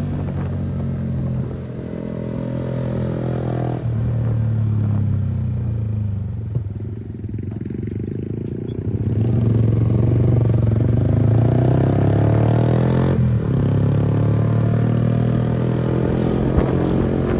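Kawasaki ZX-10R superbike's inline-four engine running under way. The engine note dips and eases off around the middle, then climbs and gets louder again, with a brief break like a gear change a few seconds later.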